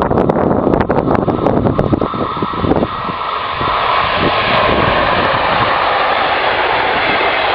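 A DB electric locomotive hauling double-deck regional coaches approaches and passes close by, a steady rushing rumble of wheels on rail that swells about three seconds in and holds. Before that, gusts of wind thump on the microphone.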